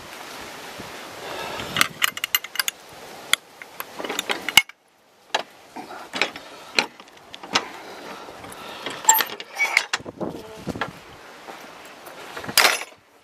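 Footsteps of a walker on a woodland trail, crunching and crackling at a walking pace, with rustling on the microphone. The sound cuts out briefly about four and a half seconds in, and a louder rustle comes near the end.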